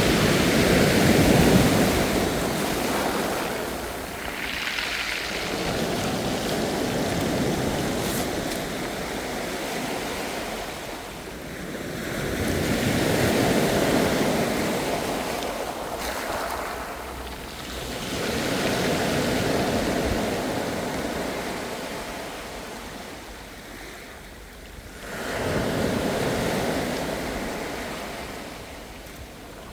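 Ocean waves breaking and washing up the shore, the surf swelling and fading about every six seconds.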